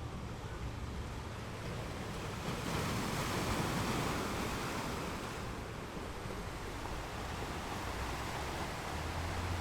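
Ocean waves breaking on rocks: a steady wash of surf, with one wave swelling and breaking about three seconds in, then subsiding.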